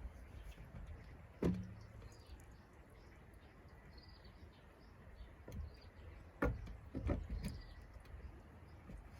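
A few sharp knocks, one about a second and a half in and three close together near the end, over a low rumble, with faint high chirps.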